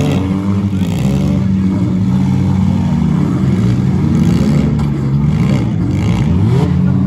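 Several compact cars' engines running and revving at once in a demolition derby, their pitches rising and falling and overlapping as the drivers gun them to push and ram.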